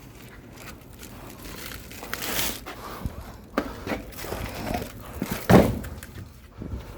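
Split firewood being handled: irregular wooden knocks and scrapes, with one heavy thump about five and a half seconds in.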